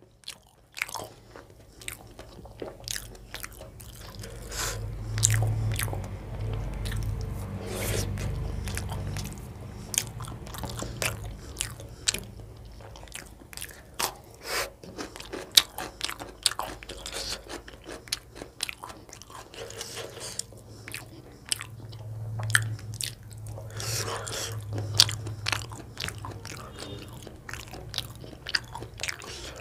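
Close-miked eating sounds: a person chewing and smacking through mouthfuls of chicken gizzard curry and roti eaten by hand, with many short, sharp wet clicks.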